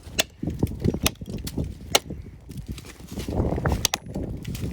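Several sharp, irregularly spaced chops into wood, struck with a blade, with rustling and handling noise between the blows.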